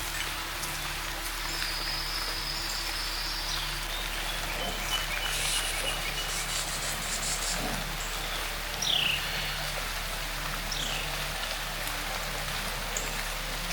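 Light rain pattering on the forest canopy and leaves, a steady hiss, with a few bird calls over it: one held high note about two seconds in and two short downward-sliding whistles later on.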